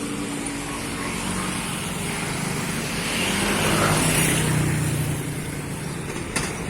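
A motor vehicle's engine running, swelling louder about three to four seconds in and then fading again, with a short click near the end.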